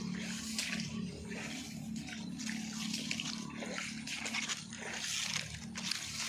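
Floodwater running and splashing as it spills over the edge of a farm pond, with a low steady drone underneath.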